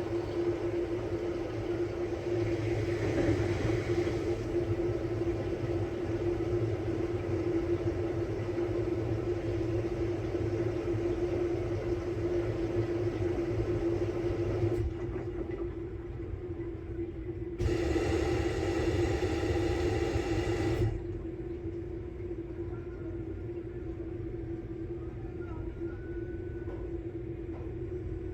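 Samsung Bespoke Grande washing machine running its quick-wash cycle: a steady motor hum with a constant whine and drum rumble. Past the middle the hiss drops away, comes back louder for about three seconds, then settles quieter.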